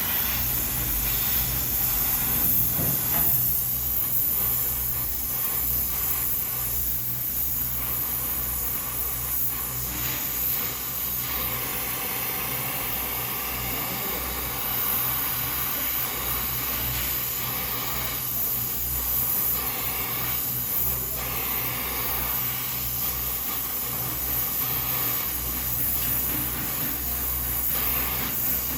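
A steady hiss over a low, steady hum.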